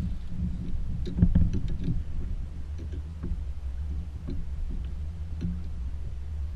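Kayak on open water: a steady low rumble with scattered small knocks and clicks, the loudest about a second in.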